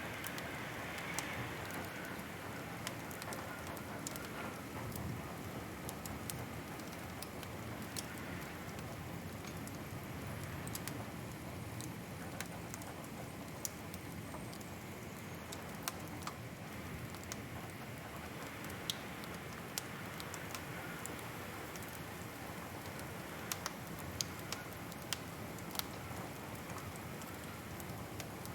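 Wood fire crackling in a fireplace: a steady soft hiss with irregular sharp pops and snaps, a few of them coming close together near the end.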